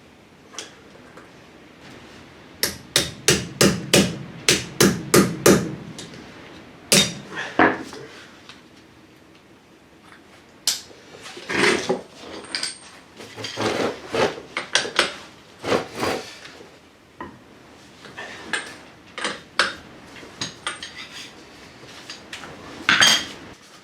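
Hammer blows on metal while freeing a car's front wheel hub nut: a quick run of about ten strikes, roughly three a second, a few seconds in, then scattered knocks and tool clanks.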